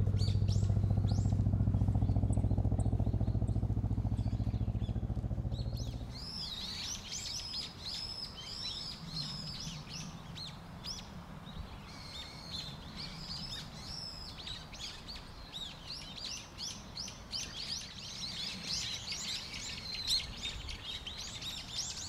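A steady low engine hum for about the first six seconds, which cuts off; after it, many birds chirping and calling busily, the chirps thickest near the end.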